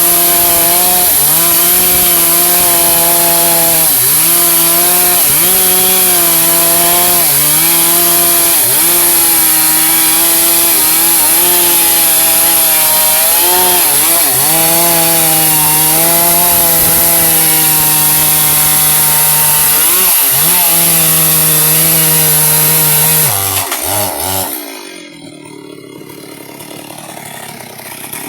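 Two-stroke chainsaw running at high revs, cutting albizia wood. The engine note dips in pitch briefly every second or two as the chain takes the load. About 23 seconds in, the engine note drops away and the sound turns much quieter.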